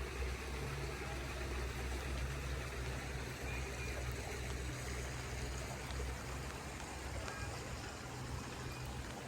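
Steady rain falling, an even hiss, over a constant low rumble.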